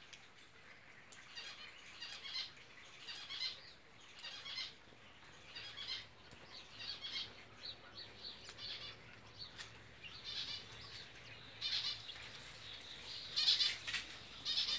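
Birds chirping in short repeated bursts, about one a second, growing loudest near the end.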